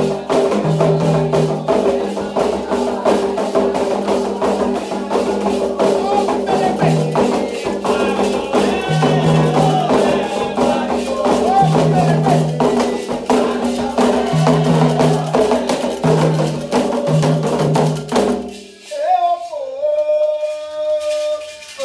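Candomblé ritual music: atabaque drums and other percussion play a fast, dense rhythm under group singing. About eighteen seconds in the drumming stops, and a single voice carries on alone with long held notes, starting a new chant.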